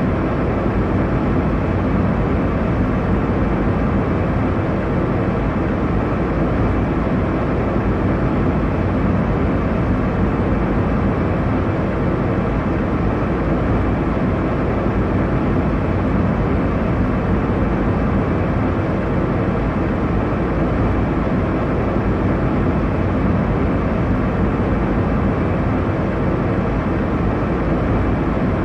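Airliner cabin noise in flight: a steady, even rush of engine and airflow noise, deep and unchanging.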